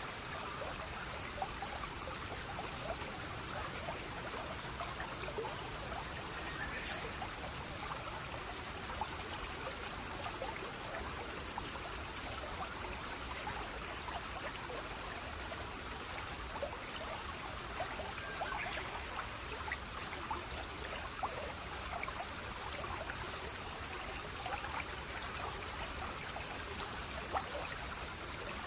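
Water trickling and splashing in a small stream, a steady rush with many small splashes. A faint high pulsed trill comes and goes several times.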